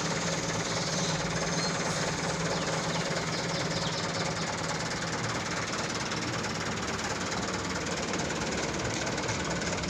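Truck engine idling steadily, a constant low running hum with an even clatter over it.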